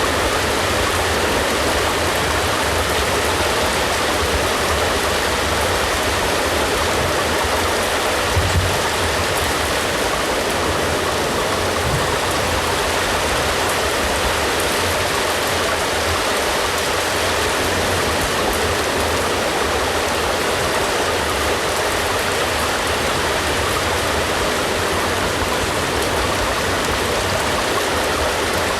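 Steady rain falling, an even continuous hiss of drops with no change in intensity, and a brief low thump about eight and a half seconds in.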